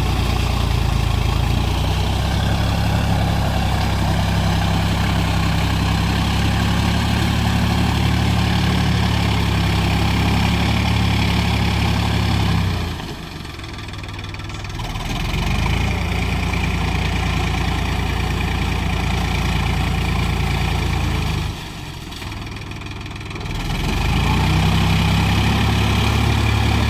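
Sonalika tractor's diesel engine running steadily, its low drone twice falling away for a couple of seconds before picking up again.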